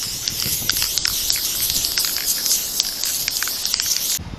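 Aerosol spray-paint can hissing in a long continuous spray that stops shortly before the end, laying gold paint that is covering poorly.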